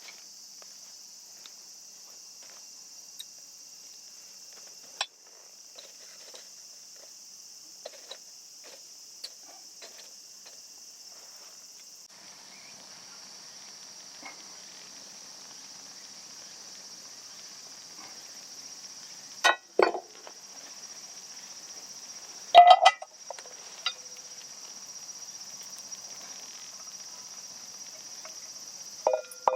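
Steady high-pitched insect chorus, with scattered light clicks and two louder knocks about two-thirds of the way through.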